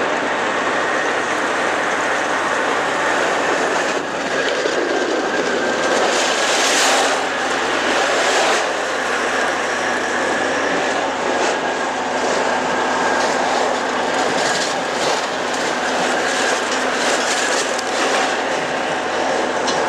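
A train running along the track: steady rolling noise with scattered clicks of the wheels over the rails and a faint steady whine.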